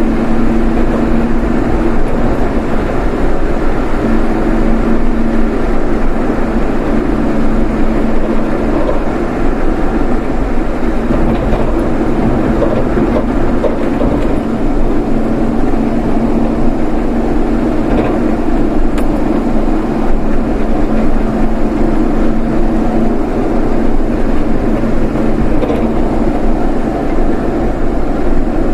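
Steady running noise of a vehicle on the move: a constant engine hum with a deep road and wind rumble, the hum rising and falling slightly.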